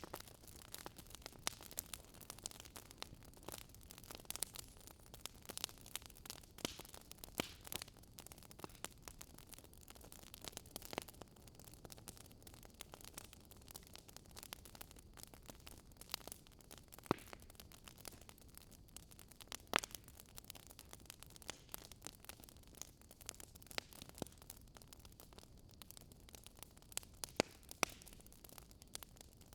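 Fireplace fire crackling: irregular sharp pops and snaps over a faint steady hiss.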